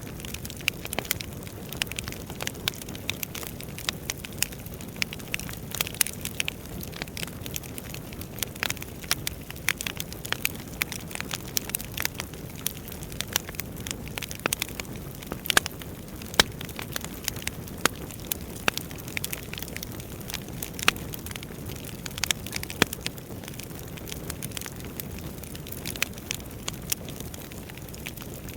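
Wood fire burning in a fireplace: a steady low rush of flames with frequent sharp, irregular crackles and pops of the burning logs, a few louder pops about halfway through.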